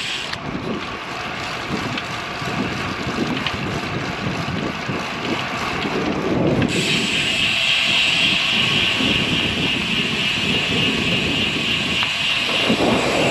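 Wind rushing over the microphone with road noise from a bicycle in motion. About seven seconds in it grows louder, with a stronger hiss that then holds steady.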